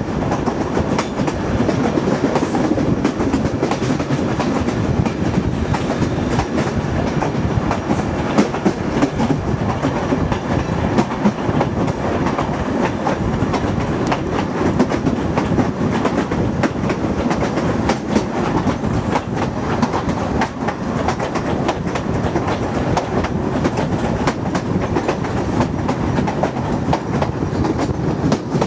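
A moving Turkish State Railways mixed freight-passenger train: a steady rumble of wheels on the rails, with clicks and knocks coming irregularly and often, the clickety-clack of wheels over rail joints.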